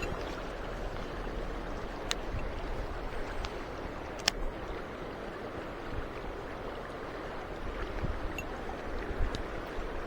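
Mountain stream water rushing steadily, with a couple of sharp clicks about two and four seconds in.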